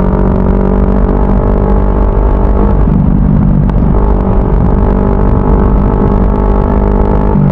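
CFMoto 400NK parallel-twin motorcycle engine running under way at a steady drone, its pitch stepping up about three seconds in and back down about a second later.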